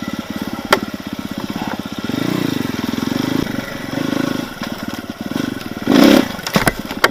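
Enduro motorcycle engine running at low revs with a fast even pulse and a few short throttle blips, the loudest near the end. A sharp knock comes about a second in, and a couple more knocks follow near the end.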